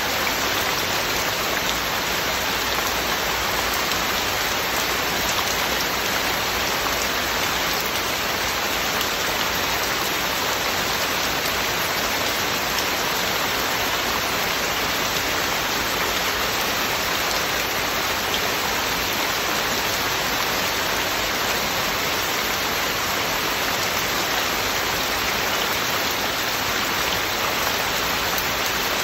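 Heavy rain falling steadily: a constant, even hiss with no changes or breaks.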